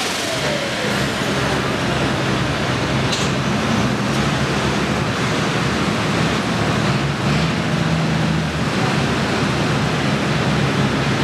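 Pro stock pulling tractor's turbocharged diesel engine running flat out under load during a pull, a loud, steady mechanical noise.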